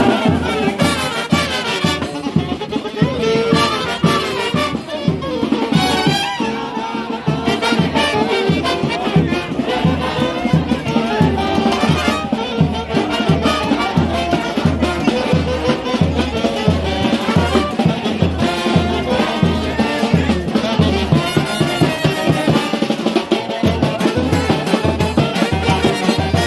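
Brass street orchestra playing a fast carnival march, trumpets and trombones over a steady bass beat about twice a second.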